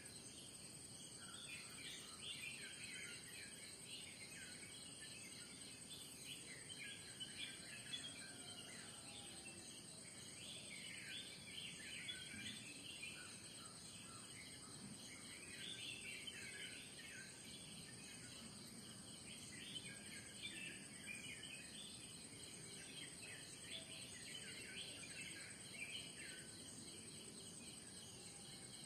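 Faint mix of many small birds chirping and calling in quick short notes, over a steady high-pitched insect drone from crickets that never lets up.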